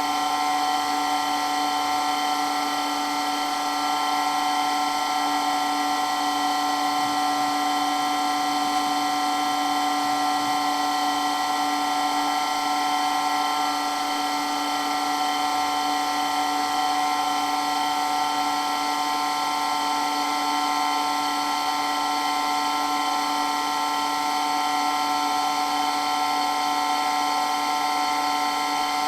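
Water pump for a water blaster running steadily, very loud, with a constant whine of several fixed pitches over a hiss that does not change.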